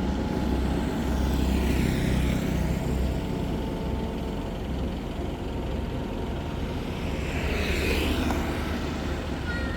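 Diesel engine of a truck-mounted crane running steadily with a low rumble, with a hissing swell about two seconds in and again near the end.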